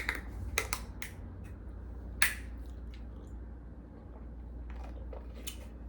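Scattered sharp clicks and taps from handling things at the table, with one louder short crackle about two seconds in.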